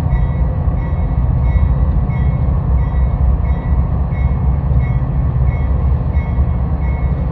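A train running by with a steady, loud low rumble. Over it a short high ding repeats evenly, a little under twice a second.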